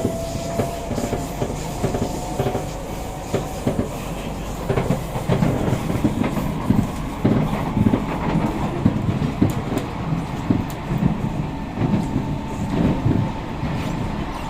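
Kawasaki–CRRC Sifang C151A metro car running between stations, heard from inside the car. A faint rising motor whine fades in the first couple of seconds, then comes a run of irregular knocks and creaks from the bogie under the car, weird bogie sounds that sound like the carriage is going to crack.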